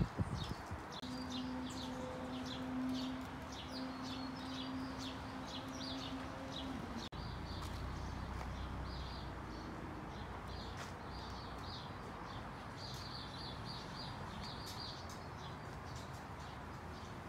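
Small birds chirping repeatedly in short, high-pitched notes over a steady outdoor hiss, with a low steady hum through the first half.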